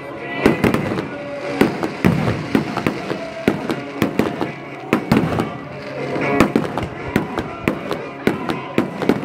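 Fireworks display: aerial shells going off in rapid, irregular bangs, several a second, with music playing underneath.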